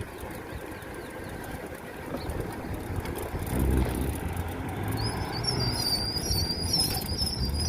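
Motor vehicle engine rumble that grows louder about three and a half seconds in, with a high, wavering whistle-like tone joining about five seconds in.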